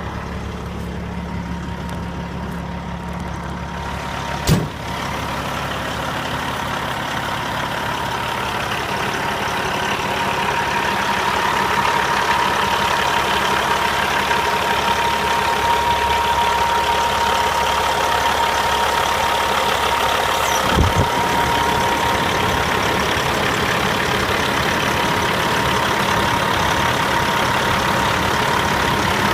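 Cat C15 diesel engine of a Western Star highway tractor idling steadily just after a clean start, with a steady whine over it. A sharp thump comes about four and a half seconds in and a lighter one about twenty seconds later.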